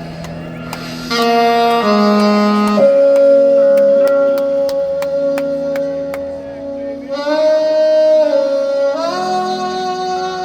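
Live band music from a slow soul-blues ballad, with a lead instrument holding long notes that step and slide from pitch to pitch over the band and light percussion ticks.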